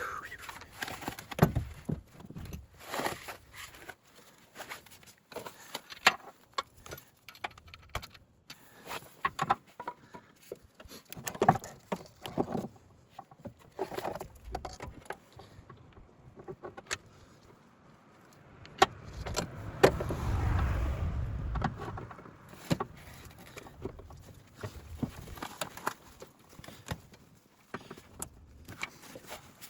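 Metal tools and bolts clinking and knocking irregularly while an alternator is refitted to a car engine, with a low rumble lasting about three seconds midway.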